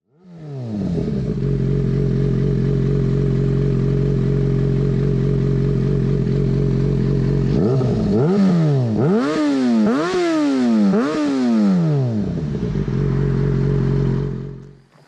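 Yamaha FZ6N's inline-four engine through a Two Brothers aftermarket exhaust, idling steadily. About halfway through, a quick series of throttle blips makes the revs rise and fall, and then it settles back to idle.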